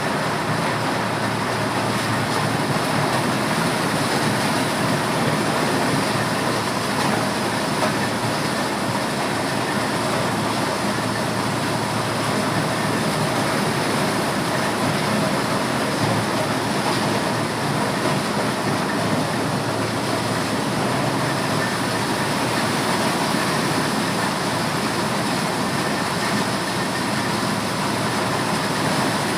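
Motorised corn sheller running steadily as it threshes maize, a loud, even mechanical din with no let-up.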